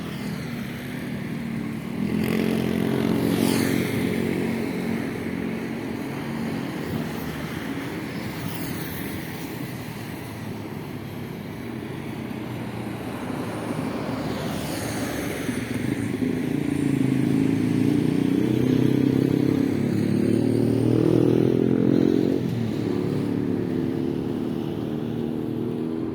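Dump truck's diesel engine running, getting louder about two seconds in and again through the second half before easing off near the end.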